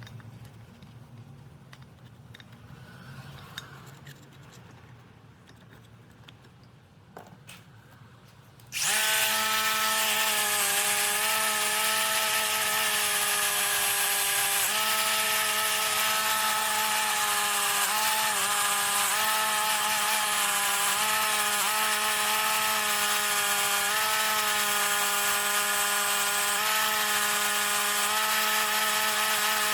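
A motor-driven machine starts suddenly about nine seconds in and runs steadily at full speed, a constant whine over strong hiss.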